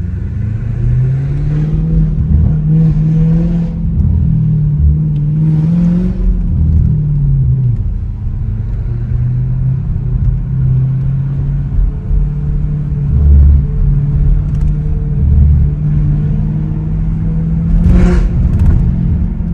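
Straight-piped Audi S7 exhaust droning as the car drives, the engine note climbing over the first couple of seconds, dropping back about six seconds in, then holding steady. A short knock comes near the end.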